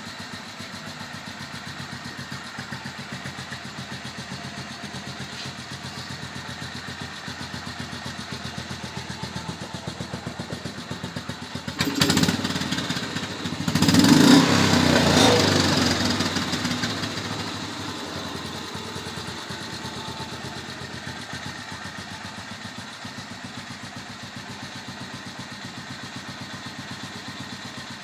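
BMW R26 single-cylinder four-stroke motorcycle engine idling with a steady, even beat, running and idling properly again. About twelve seconds in it suddenly gets louder for a few seconds, then settles back to the same idle.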